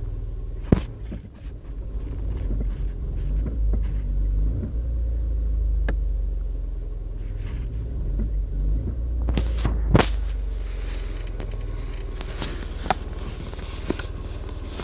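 Small car's 1.2-litre petrol engine running with a steady low rumble, with scattered clicks and knocks. About ten seconds in there is a sharp knock, and a brighter hiss joins.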